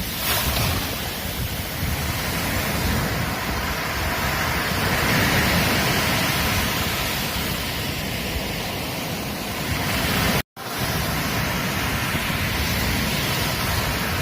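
Ocean surf washing onto a beach: a steady rushing that swells and eases, with wind rumbling on the microphone. The sound cuts out briefly about ten seconds in, then resumes.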